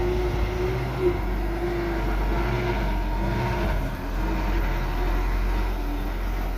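Heavy diesel earthmoving machinery running: a steady low engine rumble with a wavering whine that comes and goes.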